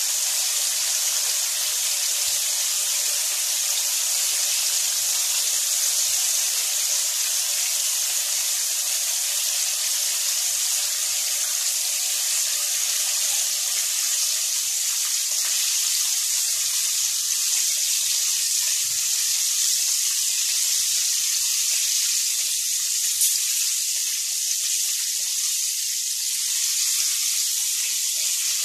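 Breaded chicken pieces deep-frying in a pan of hot oil: a steady, even sizzle, with a single brief click about three quarters of the way through.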